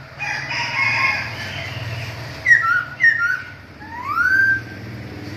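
A rooster crowing for about two seconds, followed by bird calls: two sharp whistles that glide downward, then a longer whistle that rises and levels off.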